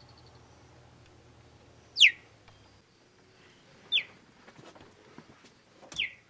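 An animal calling: three short, sharp, high squeaks, each falling steeply in pitch, about two seconds apart.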